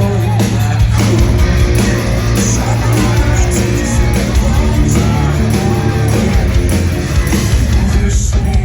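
Live rock band playing loud, with guitars, drums and singing, recorded on a phone.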